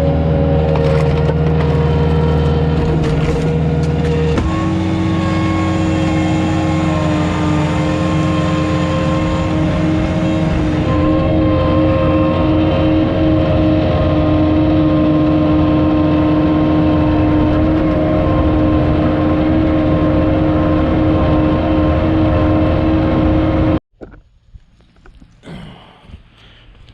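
Komatsu CK30 skid steer's engine running hard while it drives a homemade hydraulic log splitter, a loud steady drone with a held pitched note. The note shifts about four seconds in, and the sound cuts off abruptly near the end, leaving quieter scattered noises.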